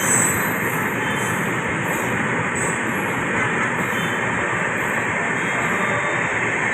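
Passenger train running, a loud, steady noise of wheels and coaches without a break.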